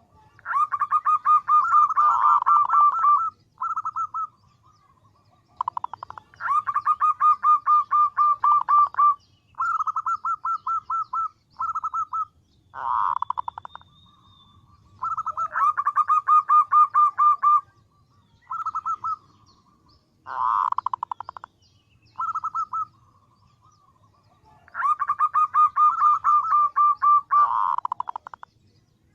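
Female zebra dove (perkutut) calling in repeated bouts of fast, staccato trilled cooing, each bout lasting one to three seconds with shorter trills in between; a lure call used to draw in males.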